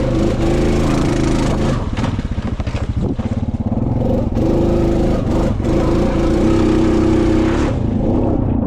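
Honda Rubicon ATV engine running under throttle through slippery mud, its pitch rising and falling as the rider works the throttle, with a hiss and scattered knocks over it; the hiss stops near the end.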